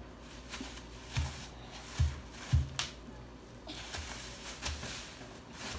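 Bubble wrap being pressed and popped by hand against a tabletop: a string of short, sharp pops and thumps with plastic crinkling, the three loudest coming in the first half about half a second to a second apart.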